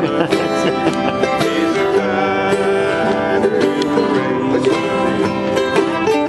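Country/bluegrass-style instrumental of acoustic plucked string instruments picking a quick, busy melody over chords.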